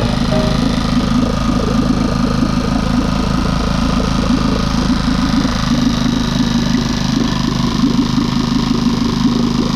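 Tohatsu 2 hp four-stroke outboard motor running steadily at idle.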